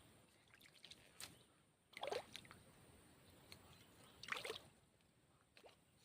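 A few faint splashes and sloshes of water, three short ones spread over the few seconds, as a freshly caught fish is handled at the water's edge.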